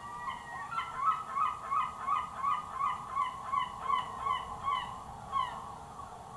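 Recorded bird calls played as the diorama's sound effect: a quick run of about a dozen short honking calls, about three a second, with the last call about five and a half seconds in.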